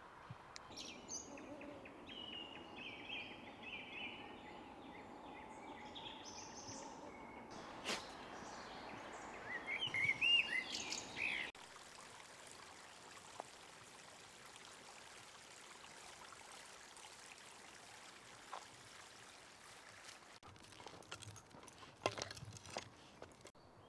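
Small birds singing and chirping, with a louder run of quick gliding chirps about ten seconds in. After about eleven seconds the song stops and a steady outdoor hiss remains, with a few clicks and rustles near the end.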